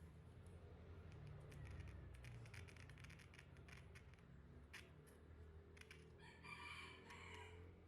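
Faint scattered clicks and taps of small handwork over a low steady hum, with a chicken's call lasting about a second and a half near the end.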